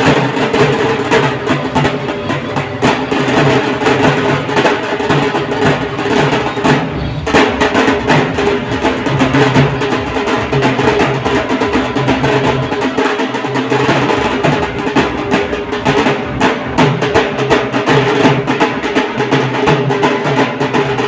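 Dhol drums played in a fast, dense rhythm over a steady held tone.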